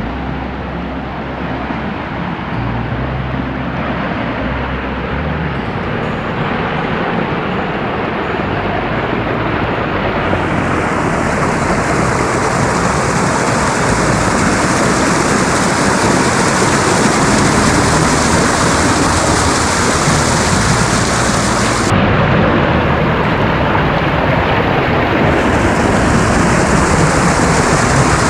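A creek waterfall rushing steadily, growing louder.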